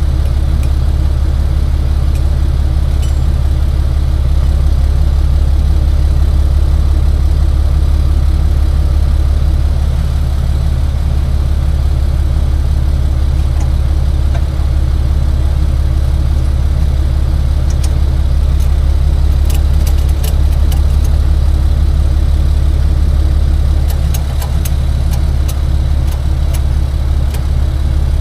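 Tow truck's engine idling steadily with a low, even hum. A run of light clicks and clanks comes in the second half.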